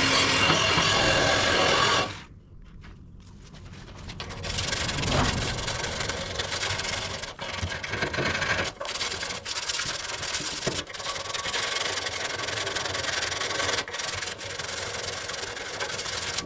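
A loud, steady power-tool noise cuts off abruptly about two seconds in; after a short lull, abrasive rubbing strokes of hand-sanding on the car's steel front wing go on, with brief pauses, working back the panel around a patch of rust.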